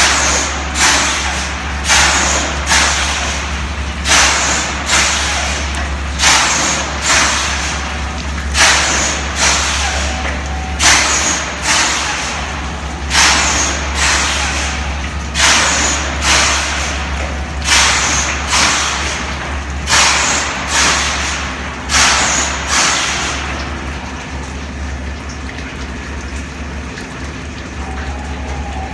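Large-engine machinery running with its electric lube oil pump on: a steady low hum under regular hissing bursts, mostly in pairs about every two seconds, which die away about five seconds before the end.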